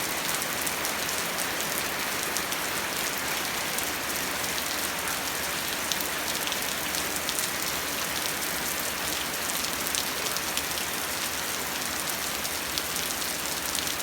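Steady rain falling, a constant hiss made of many small drop ticks, with no change in strength.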